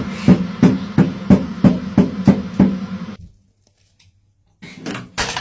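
A run of sharp, evenly spaced knocks, about three a second, that stops suddenly after about three seconds, with a short burst of sound near the end.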